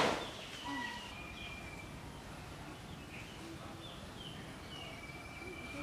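Quiet rural garden ambience with scattered short bird chirps. The tail of a loud, brief noise fades away at the very start.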